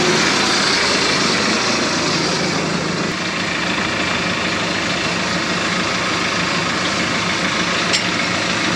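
Large farm-machine engine running steadily with an even low hum, plus one brief click near the end.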